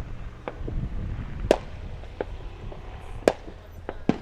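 Firecrackers going off: scattered sharp cracks at irregular intervals, the loudest about a second and a half in and just over three seconds in.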